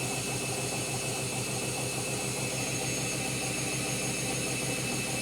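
Candy Grand'O Vita 7 kg washing machine in a fairly long spin: the motor whines steadily over a low hum from the drum that pulses fast and evenly.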